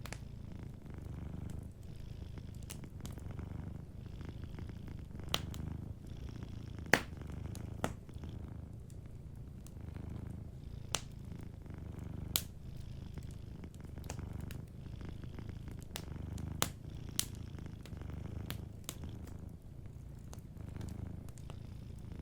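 Domestic cat purring, a low hum that swells and eases every second or so. A wood fire crackles with scattered sharp pops over it; the loudest pop comes about seven seconds in.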